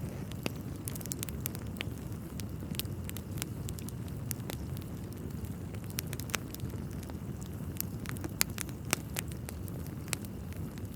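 Wood fire crackling in a fireplace: a steady low rumble of burning logs with frequent irregular snaps and pops, a couple of louder pops about eight and nine seconds in.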